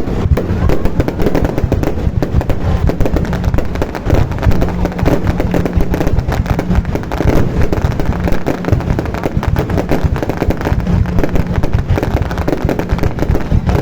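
Fireworks going off in a dense barrage of bangs and crackles over a heavy low rumble.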